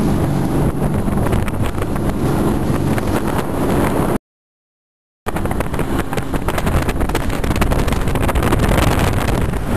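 Speedboat engine running steadily, with wind buffeting the microphone. The sound cuts out completely for about a second near the middle, then comes back.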